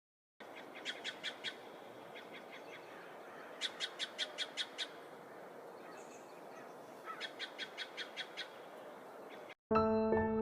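A bird calling in three runs of quick, high chirps, about five or six notes each, over a steady faint hiss of ambience. Soft piano music comes in near the end.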